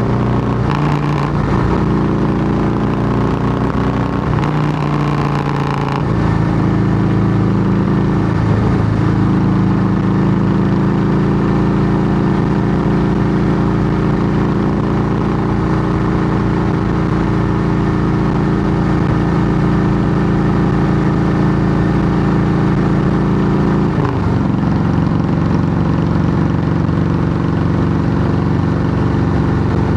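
Harley-Davidson Softail Heritage Classic's air-cooled Twin Cam V-twin running loud through Samson fishtail true-dual exhaust pipes, holding a steady note. The engine note shifts about 6 seconds in and again near 24 seconds.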